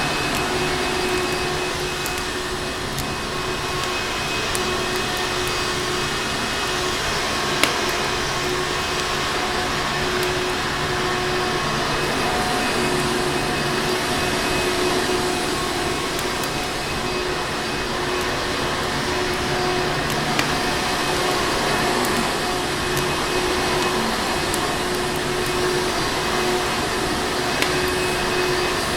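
Vacuum cleaner motor running steadily with a constant whining hum, mixed with a fireplace that gives a few sharp crackling pops.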